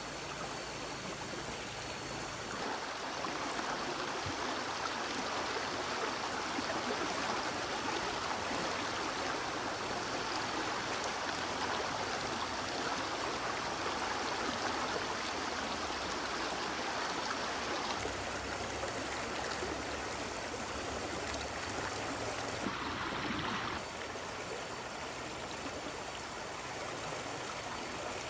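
A stream's water running steadily over rocks. The sound shifts abruptly a few times, louder from a few seconds in and again changing near the end.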